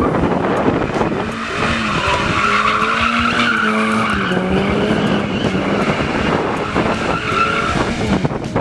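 A car drifting, its engine held at high revs with a steady note that dips slightly midway, while the tyres squeal, loudest about two to four seconds in and again near the end.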